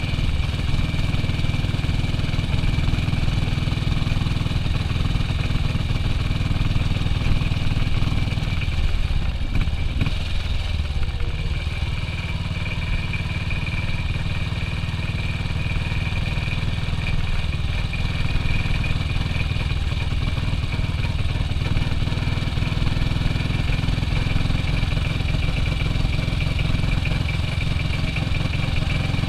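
1967 BSA B40 WD's single-cylinder four-stroke engine running steadily under way, with a brief change in the note about ten seconds in.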